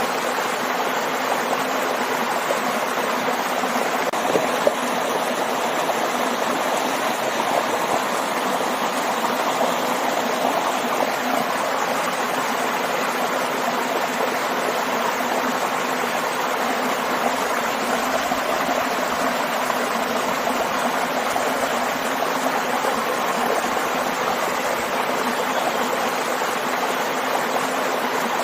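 Waterfall and stream: a steady, even rush of falling and flowing water.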